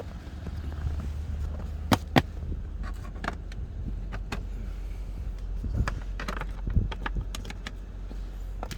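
The 2004 Lexus GX 470's 4.7-litre V8 runs at a steady low idle, heard from inside the cabin. A series of sharp clicks and knocks sounds over it, the two loudest about two seconds in.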